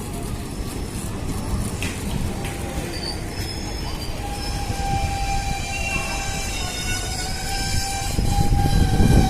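Train moving through a station with a steady low rumble. From about three seconds in, several thin, high squealing tones from the wheels join it and hold, and the rumble grows a little louder near the end.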